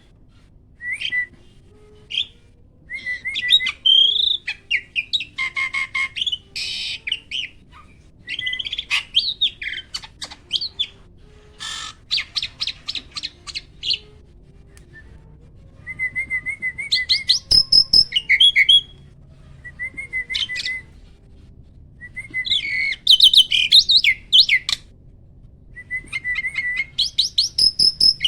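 Starling (jalak) song: a varied run of chirps, whistles and quick trills in short phrases with brief pauses between them, some phrases built of fast repeated notes.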